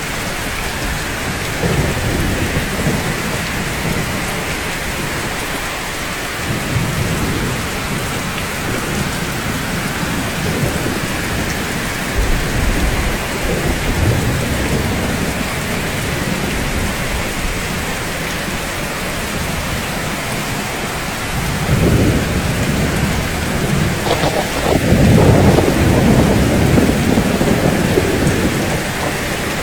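Steady heavy rain hissing, with rolling thunder rumbling low several times; the loudest roll comes about three-quarters of the way through.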